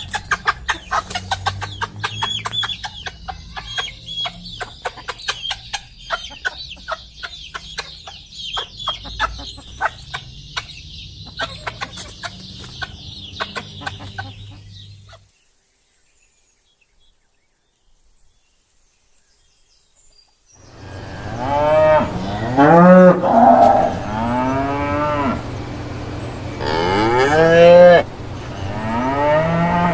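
Chickens clucking for about fifteen seconds, then a few seconds of silence, then cattle mooing in several loud, long calls.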